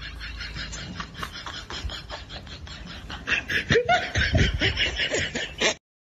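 A person laughing in a rapid run of short bursts, louder from about three seconds in, stopping abruptly near the end.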